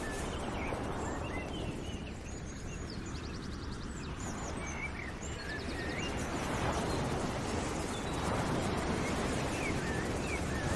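Birds chirping and trilling in short, scattered calls over a steady low rushing noise.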